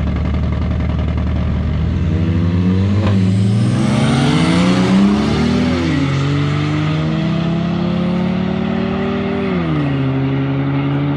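Car engine under hard acceleration in a roll race, its pitch climbing through the revs, with two upshifts dropping the pitch, about six and nine and a half seconds in.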